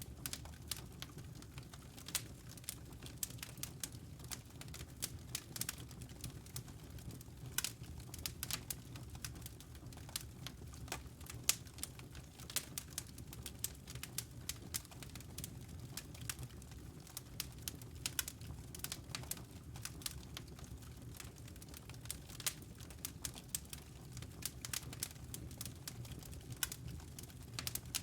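Wood fire crackling: a dense, irregular run of small sharp pops and snaps over a steady low rumble.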